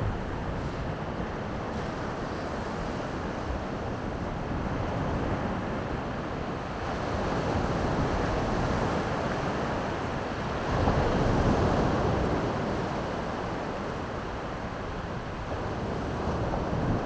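Baltic Sea waves washing onto the shore as a steady surf hiss that swells and eases, loudest as one wave breaks about eleven seconds in, with wind on the microphone.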